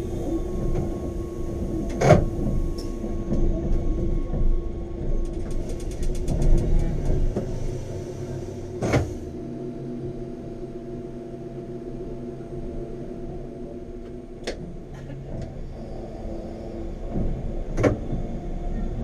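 Wengernalpbahn rack-railway train running: a steady motor hum with a few sharp knocks and a brief run of rapid clicks about five seconds in.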